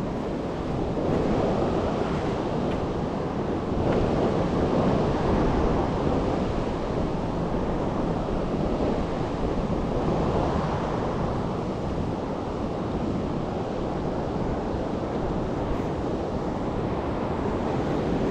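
Steady rush of fast-flowing, high creek water, with wind rumbling on the microphone.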